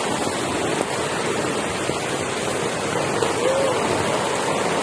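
Heavy hailstorm: a steady, dense rush of hail and rain coming down, with a few sharp ticks of hailstones striking.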